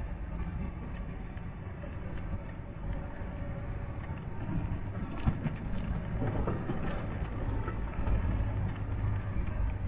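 Steady low rumble of a vehicle's engine and road noise heard inside the cab while driving, with scattered small clicks and rattles.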